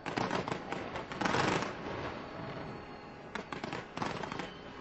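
Aerial fireworks going off in rapid bursts of sharp cracks and bangs, with a dense crackling volley about a second and a half in and another flurry near the end.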